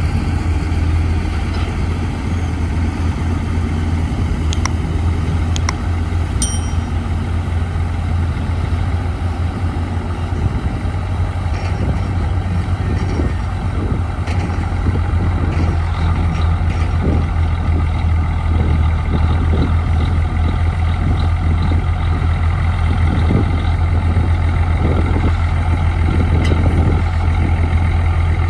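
Heavy diesel engine of a bulldozer running steadily under work, with a few sharp metallic clanks in the first few seconds.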